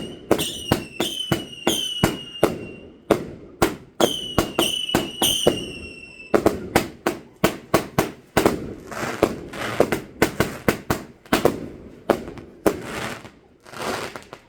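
A fireworks barrage firing a rapid string of bangs. For the first six seconds many shots are followed by a short high whistle that dips slightly. After that the bangs come with crackling, and the firing stops just before the end.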